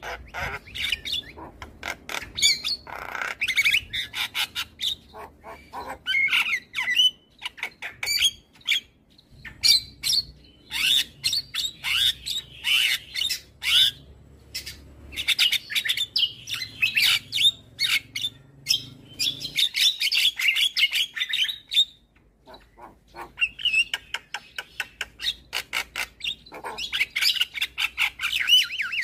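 Javan myna singing a fast, chattering song of squawks, whistles and sharp clicks, with a brief pause about two-thirds of the way through.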